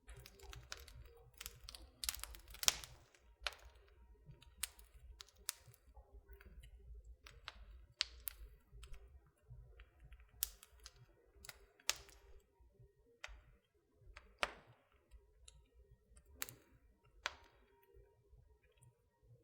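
Wood fire crackling in a fireplace: irregular sharp pops and snaps, busiest about two to three seconds in, over a low steady rumble.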